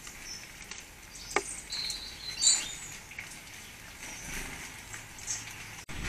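Small garden birds at a feeder giving short, high chirps and calls, with a few sharp taps, the loudest about two and a half seconds in.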